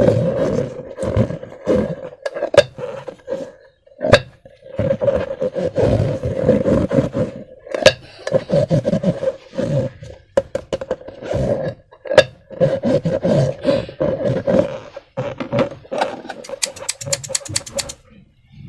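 Rubber balloons and slime being handled by hand: an on-and-off buzzing squeal with rubbing noise and sharp clicks, and a quick run of crackling clicks near the end.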